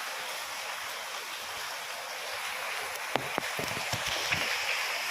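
Steady rain falling, an even hiss, with a few sharp drip-like taps about three to four seconds in.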